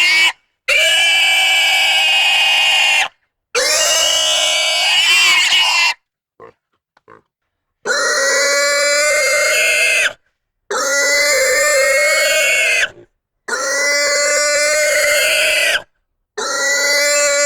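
An animal squealing: a string of about six long, high-pitched cries, each lasting two to three seconds, with wavering pitch and dead silence between them.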